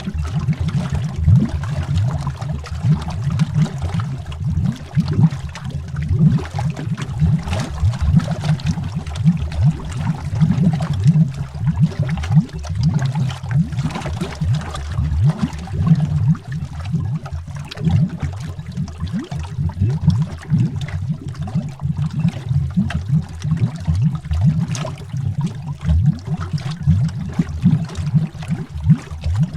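Continuous underwater bubbling, heard from below the surface: a dense stream of deep, low bubble pops and gurgles.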